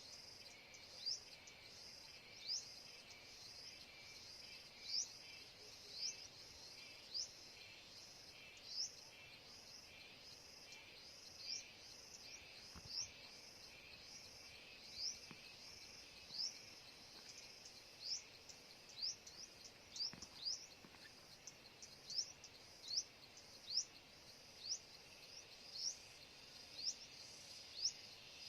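A bird giving short, rising chirps, roughly one a second and unevenly spaced, over a steady high hum of insects.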